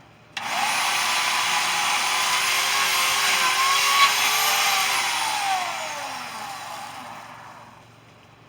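A power tool motor starts suddenly, runs steadily at full speed with a sharp click partway through, then winds down with falling pitch and fades out.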